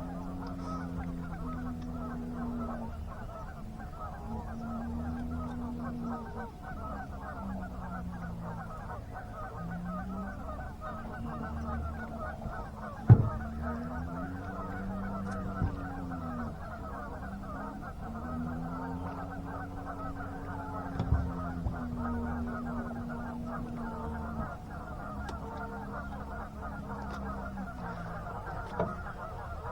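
A low motor hum that slowly rises and falls in pitch, several seconds per swell, over a steady background rush. A few sharp knocks cut through it, the loudest about 13 seconds in.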